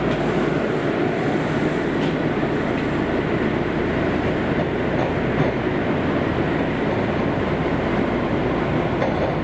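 Kobe City Subway 5000-series linear-motor train running between stations, heard inside the car: a steady rumble of wheels on rail and car-body noise.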